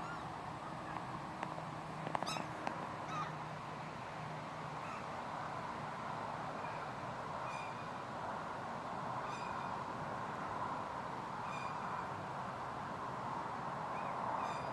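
Gulls calling: short, clear cries repeated every second or two, over a steady background hiss.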